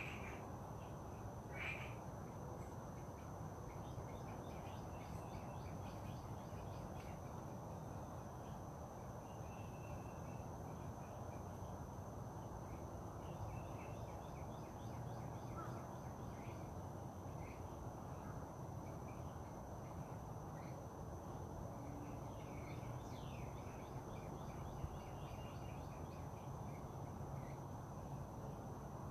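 Outdoor nature ambience: scattered short bird chirps and calls over a steady low background rumble, with a thin, steady high-pitched tone throughout.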